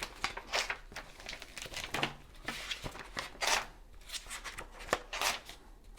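Pages of a paper instruction manual being turned and rustled: a string of irregular short rustles and page flicks.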